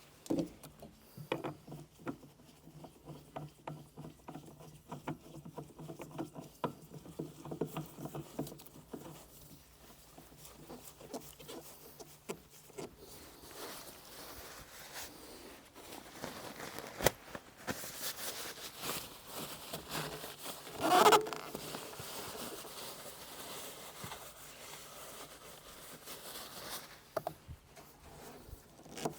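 Small clicks, taps and rustling of hands and hand tools working on the fuel filter of a Kubota, with one louder clatter about two-thirds of the way through.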